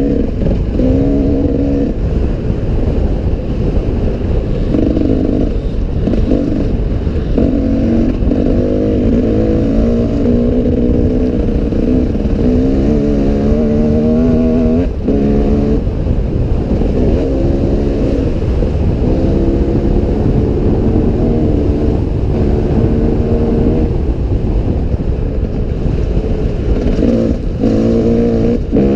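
Off-road enduro motorcycle engine revving up and down continuously while riding on rough terrain. The throttle drops off briefly about halfway through and again near the end.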